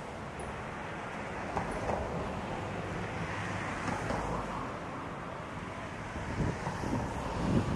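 Train rolling along: a steady rumble and hiss of wheels on the rails, with wind on the microphone and a couple of low thumps near the end.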